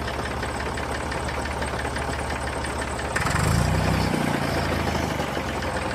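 Engine idling with an even firing beat; about three seconds in it speeds up and gets louder for about a second, then eases back to a steady run.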